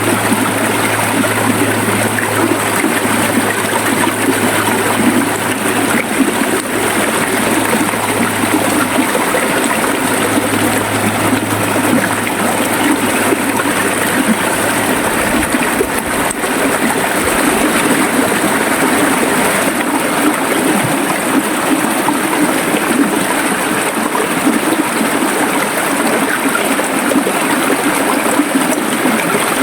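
River water flowing and gurgling steadily. A low steady hum runs underneath and stops about halfway through.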